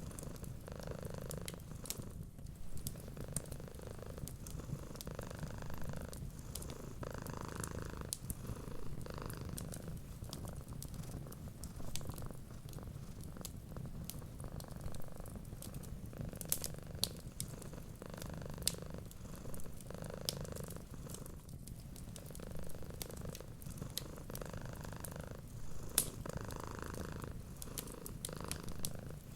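Domestic cat purring steadily, the purr swelling and easing with each breath about every second or two, with scattered light crackles of a wood fire.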